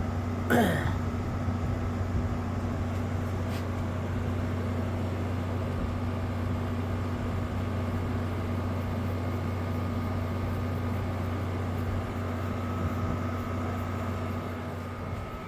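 Frigidaire 5,000 BTU window air conditioner running with the compressor and fan on: a steady, even hum, with a brief falling sound about half a second in.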